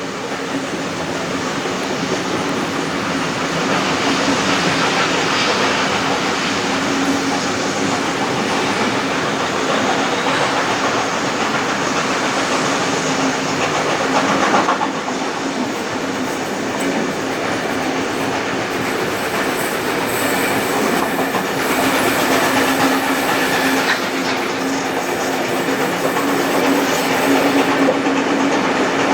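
Passenger carriages of a heritage train hauled by steam locomotive 3801 running along the track at speed: a continuous rolling rumble with the wheels clacking over the rail joints, a little louder after the first few seconds.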